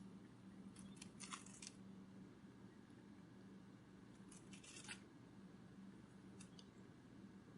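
Butterfly wing-flutter sound effect: faint, crisp papery flutters in short bunches, about a second in, in the middle and once more later, over a low steady hum.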